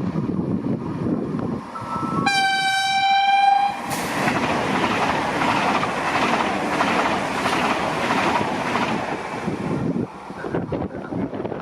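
A train sounds one horn blast of about a second and a half as it approaches, then passes through the station at speed with a loud rush of wheels and wagons that stops about ten seconds in.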